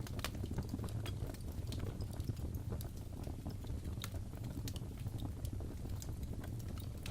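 Crackling fireplace: wood fire with a steady low rumble and frequent small, irregular pops and snaps.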